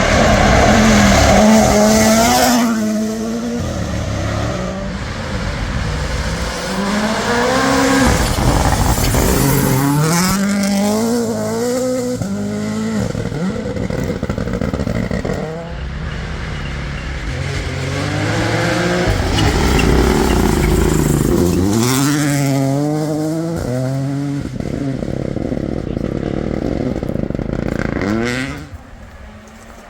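Rally cars at full throttle passing at speed, engines revving up in steps through gear changes, then dropping off. Several loud passes come one after another, and the sound falls away near the end.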